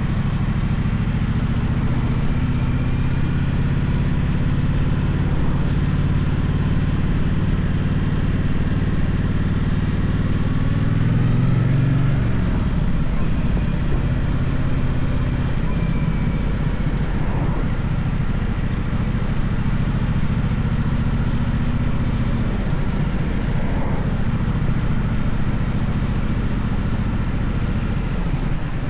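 Gaokin GK1200 motorcycle engine running under way, a steady engine note. About twelve seconds in it climbs in pitch, then drops sharply, as when revving up and shifting gear.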